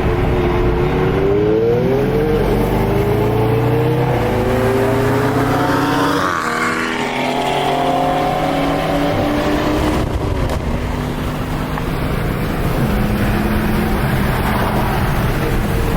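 Car engines running on the road, rising and falling in pitch as they rev and shift, with a sweep in pitch about six to seven seconds in like a car going past.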